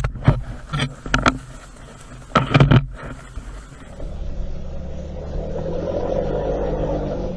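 Off-road vehicle engine running steadily at low revs, with several short, loud knocks or bangs in the first three seconds.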